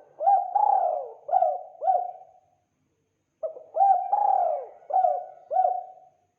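Spotted dove cooing: two phrases of four or five notes each, about a second apart.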